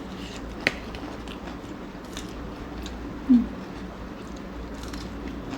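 Chewing and biting of a crunchy chatpate snack, with a sharp click about two-thirds of a second in and a brief voiced sound a little past three seconds, over a steady fan hum.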